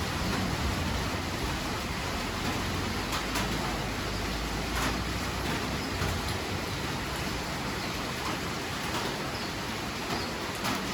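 Steady rain, an even hiss with a few sharper drop ticks. A low rumble of thunder dies away about halfway through.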